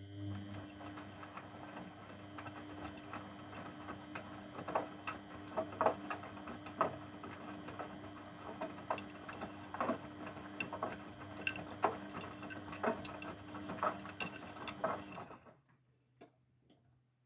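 Grundig washing machine running its motor at a steady speed with a steady whine, with irregular clicks and knocks throughout. It stops suddenly about 15 seconds in, followed by a few faint clicks.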